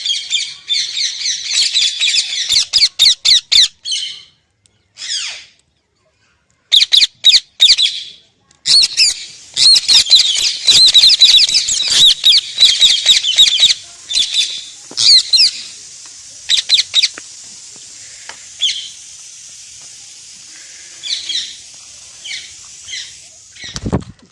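Pet parrot chattering and squawking in rapid, high-pitched runs, breaking off for a few seconds in the middle, then giving sparser squawks later on.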